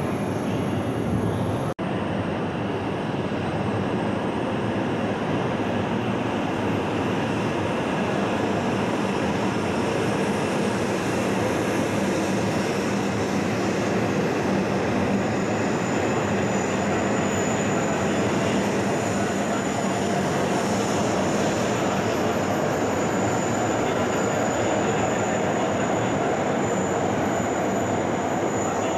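E7/W7-series Shinkansen trains running slowly through a station on curved track: a steady rumble of wheels and running gear, with a thin high whine that sets in about halfway through. The sound breaks off sharply for an instant about two seconds in.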